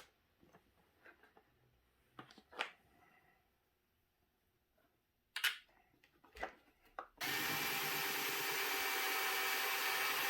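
Light clicks and knocks of small parts being handled, then about seven seconds in a power drill starts and runs at a steady speed to the end.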